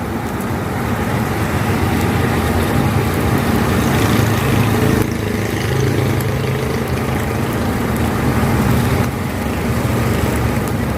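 Steady road traffic noise from vehicles passing close by on a busy street.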